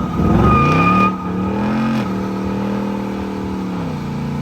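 A car engine revving up, its pitch climbing for about two seconds, then holding at steady high revs before easing off near the end. A thin high whine sounds over it in the first second.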